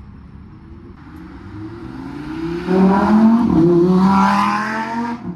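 A car engine revving hard: the pitch climbs and the sound grows loud from about a second in, holds high for around two seconds, then drops away abruptly near the end.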